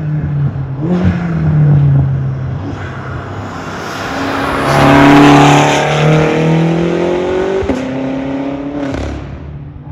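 The 4.4-litre S63TU twin-turbo V8 of a tuned BMW M6, running catless downpipes and no resonator, pulling hard under throttle. Its revs climb to the loudest point about halfway through, then drop sharply at an upshift about three-quarters of the way through.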